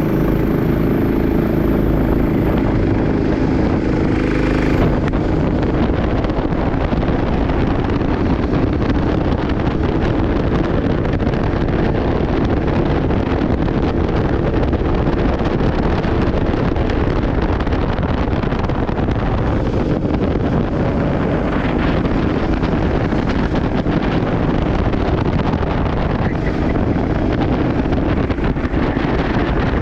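Racing kart's engine running steadily at speed, with heavy wind noise buffeting the microphone.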